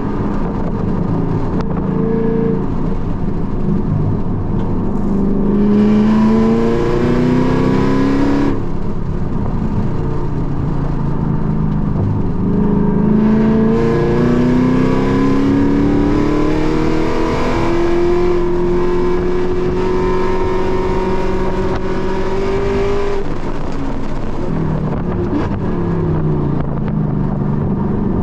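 Car engine heard from inside the cabin at full pace, climbing in revs through several gears in rising pulls, holding high revs for a few seconds, then dropping as the car slows near the end, over steady tyre and wind noise.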